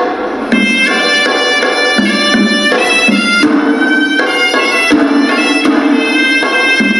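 Hewisi temple music: a horanewa, the Sri Lankan double-reed pipe, playing a shrill melody in held notes that change every half second or so, over steady drum strokes.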